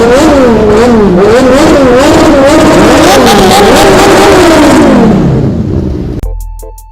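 Loud motorcycle engine being revved repeatedly, its pitch blipping up and down about twice a second, climbing higher around three seconds in, then dropping away after about five seconds.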